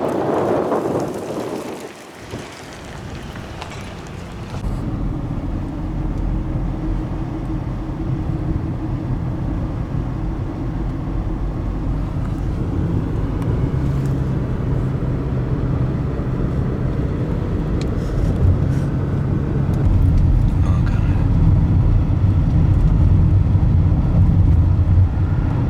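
Steady engine and road noise of a moving car heard from inside, slowly growing louder. A brief rush of noise fills the first couple of seconds.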